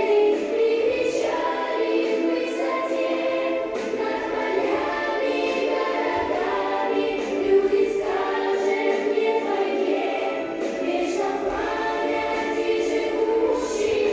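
A choir singing a song together in sustained, melodic phrases.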